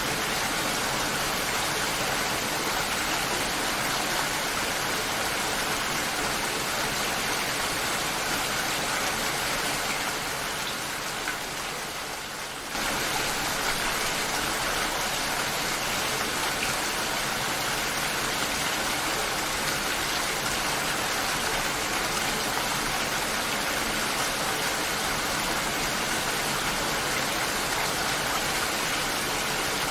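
Steady rain falling, an even hiss of many drops. About ten seconds in it fades slightly, then cuts back in suddenly at full level a couple of seconds later.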